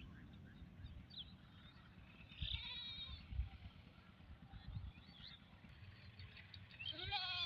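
A goat bleats once near the end, a short wavering call, with faint bird chirps scattered throughout.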